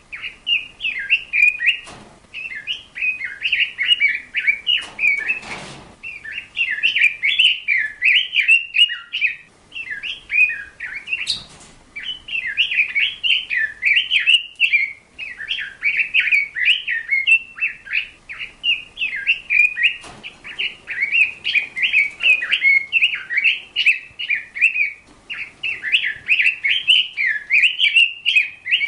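Small birds chirping and twittering in a rapid, near-continuous chatter with a few short pauses. A brief rustling noise comes about five seconds in.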